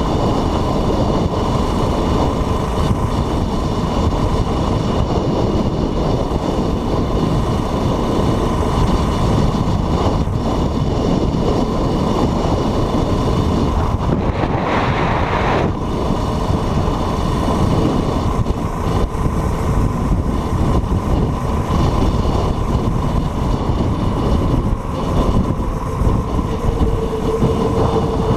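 Train running along the rails: a continuous loud rumble of wheels and cars on track. A short hiss comes about halfway through.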